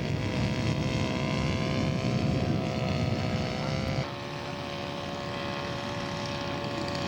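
Radio-controlled scale model airplane's engine buzzing steadily in a flyby, its pitch sliding slowly lower; about four seconds in it drops in level and steps slightly lower.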